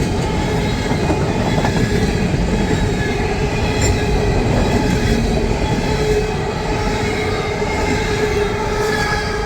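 Empty coal hopper cars rolling past at speed, steel wheels rumbling on the rails with a steady wheel squeal; the noise eases a little after about six seconds as the end of the train draws away.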